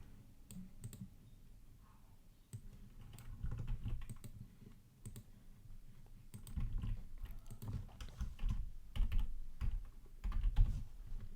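Computer keyboard typing and mouse clicks in irregular bursts.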